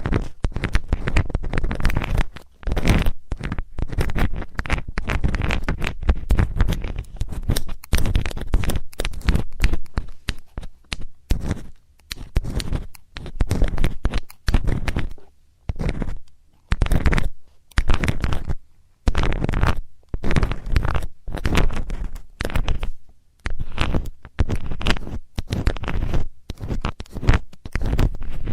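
ASMR ear cleaning with a metal tool: scratching and rubbing strokes close against the microphone, one after another with short gaps.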